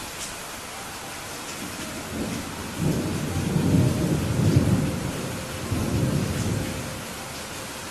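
Steady rain falling, with a long roll of thunder that builds about two seconds in, rumbles loudest through the middle and dies away near the end.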